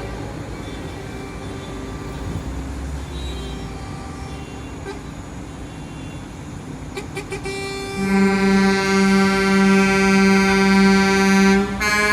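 Truck engines running, then about eight seconds in a truck's air horn sounds a long, loud blast that breaks off briefly near the end before sounding again.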